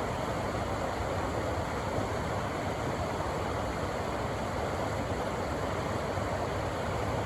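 Rushing river water running over rocks, a steady, even rush.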